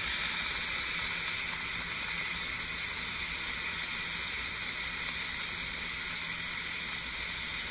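Pressure cooker's steam release valve venting in a steady hiss: a quick pressure release, with the pot still under pressure and not yet finished.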